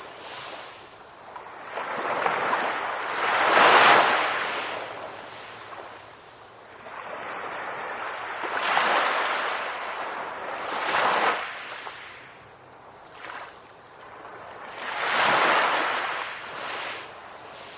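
Ocean surf: waves breaking and washing ashore, the rush swelling and fading every few seconds, with the loudest wave about four seconds in.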